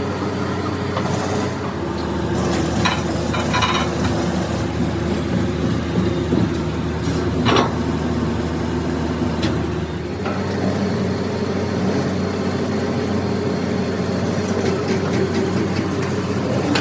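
A motor running steadily with a droning hum, with a few sharp metal knocks over it. A deeper hum joins about a second and a half in and drops away about ten seconds in.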